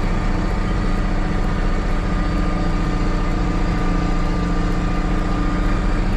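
Case 2670 tractor's six-cylinder turbodiesel engine running steadily under load, with a thin steady whine over the engine drone.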